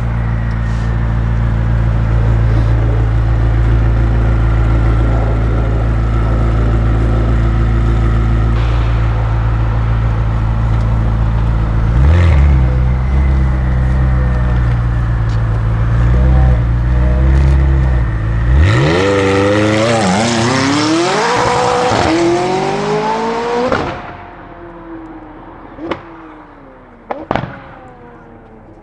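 McLaren 600LT's twin-turbo 3.8-litre V8, running catless downpipes, idling with a deep drone and revved briefly twice. It then accelerates hard away, its pitch climbing in steps through the gears, and fades out, with a couple of sharp cracks near the end.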